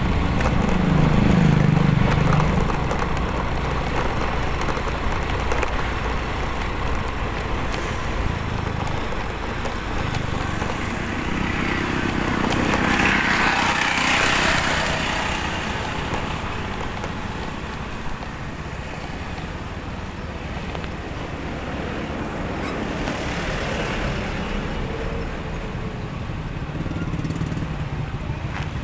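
Motorcycle riding on the road: steady engine and road noise with wind on the microphone, louder in the first couple of seconds and swelling again around the middle.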